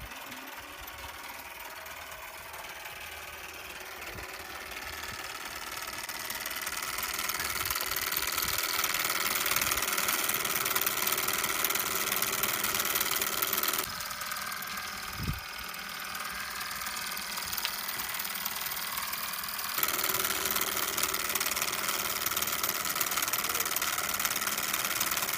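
Small solar-powered Stirling engine running fast with a steady mechanical clatter, growing louder over the first several seconds. A single dull thump comes about fifteen seconds in.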